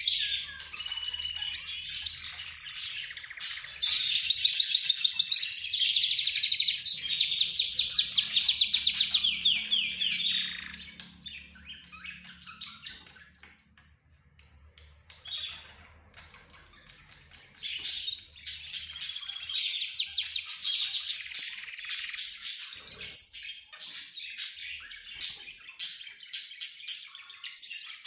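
Mixed cage birds (budgerigars, lovebirds, zebra finches and a canary) chirping and singing. A dense stretch of song and trills fills the first ten seconds or so, then falls to a near-quiet lull, and sharp repeated chirps start up again a few seconds later.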